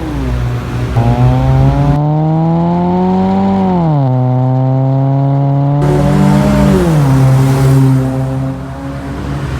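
Nissan Almera's four-cylinder engine revved through a full aftermarket exhaust system: the revs climb about a second in and hold high, drop back around the middle, then a shorter blip rises and falls near the end.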